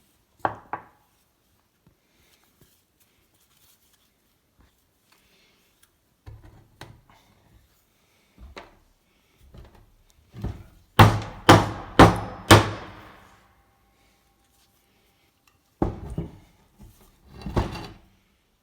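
Knocks and clunks from work on a rusty, seized bench vise. Scattered single knocks lead to four hard strikes about half a second apart near the middle, which leave a brief faint ring, then a few more clunks near the end.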